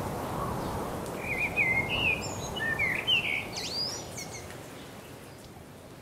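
A songbird singing a quick run of warbled, whistled chirps for about three seconds, over a soft background hiss that slowly fades.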